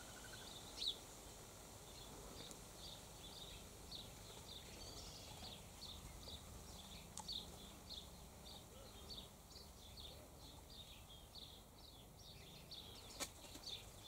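Faint bird chirping: a steady run of short, high chirps, about two or three a second, with one louder chirp about a second in and a sharp click near the end.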